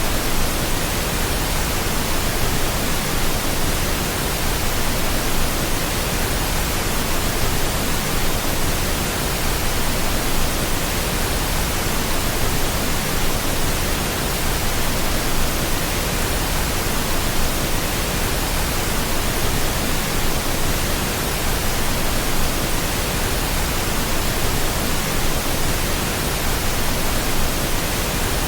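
Steady pink noise: an even, unbroken hiss with no change in level, played as a sleep and soothing sound for a baby.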